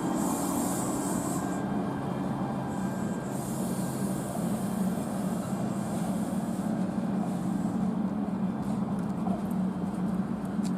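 Siemens P2000 light rail train running as it pulls away: a steady low hum, with a high hiss that comes and goes in stretches during the first several seconds.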